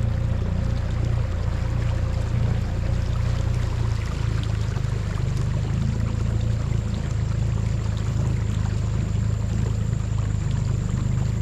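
Small outboard motor on a Gheenoe boat running steadily under way, with water rushing along the hull.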